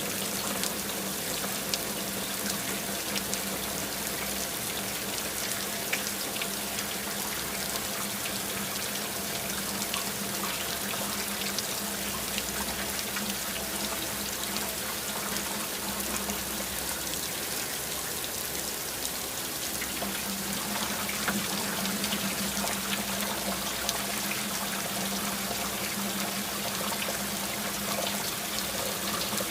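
Steady rain falling, with many separate drop hits sounding through the even hiss. A steady low hum runs underneath, fading briefly about two-thirds of the way through.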